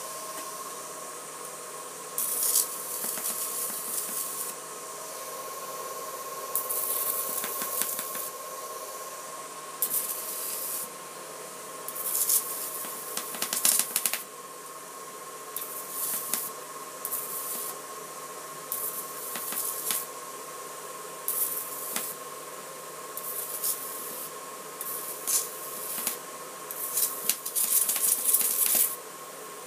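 High-voltage arc from a microwave oven transformer driven by a ZVS driver at 48 V: a steady high whine, broken by about a dozen irregular bursts of hissing noise from the arc, each lasting up to a couple of seconds.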